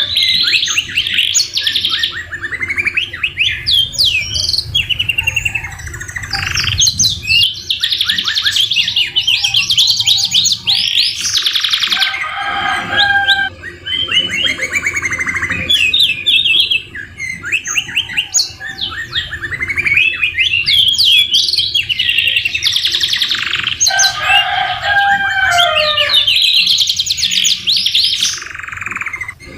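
Canaries singing continuously in fast trills and rapid chattering runs, with phrases copied from the white-rumped shama. A slower falling whistled phrase comes at the start, again about twelve seconds in and again near the end.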